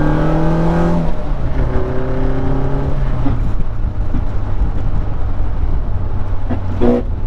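Honda Del Sol's B20 engine revving up for about a second, then dropping off. It pulls up again briefly, then settles into a steady low drone as the car runs on.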